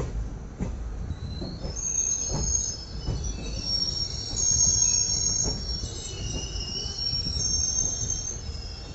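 Passenger train's steel wheels squealing on the rails, several high-pitched shrill tones that start about a second and a half in and waver on, over the low rumble of the running train with occasional clacks from the rail joints.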